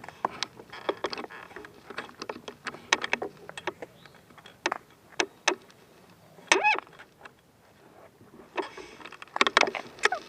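Irregular clicks, knocks and rattles of a child's bicycle being handled, with a short squeak about six and a half seconds in and a thicker run of clicks near the end.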